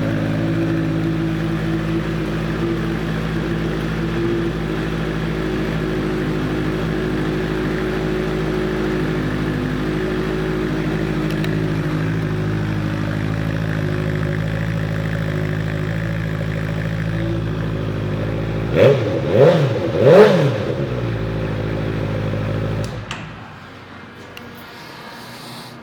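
2015 Honda CBR650F's inline-four engine with a Two Brothers aftermarket exhaust idling steadily. Near the end it is blipped three times in quick succession, rising and falling in pitch, then settles back to idle and is shut off.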